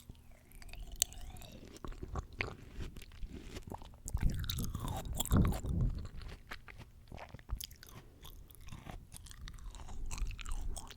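Close-miked biting and chewing of fresh fruit, with crisp crunches and wet mouth clicks, loudest around the middle.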